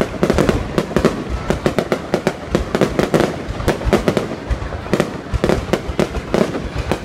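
Fireworks going off: a dense, irregular run of bangs and crackles, several a second, overlapping without a break.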